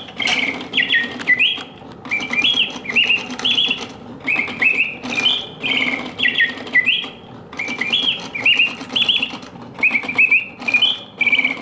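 Late-1800s Bontems double singing bird cage, a clockwork automaton whose bellows-driven whistle gives its mechanical birds realistic song: rapid chirped and warbled phrases repeating without pause, with a low steady hum underneath.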